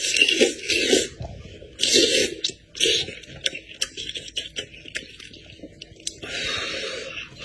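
Close-up chewing and crunching on goat head meat, in loud bursts in the first three seconds with small clicks between them, and a longer stretch of chewing near the end.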